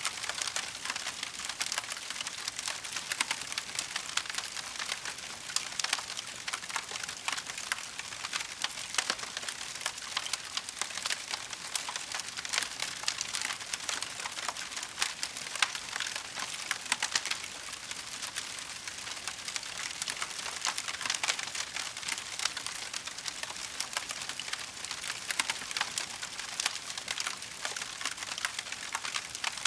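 Wood fire burning in a fireplace, crackling steadily with dense, irregular snaps and pops over a soft hiss.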